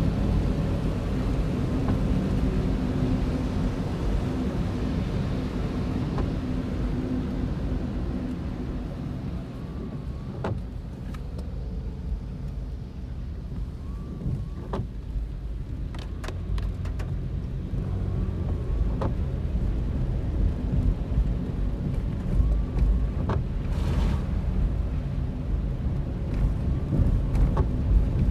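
Car driving, with steady engine and road rumble heard from inside. Scattered short clicks and knocks come from about ten seconds in.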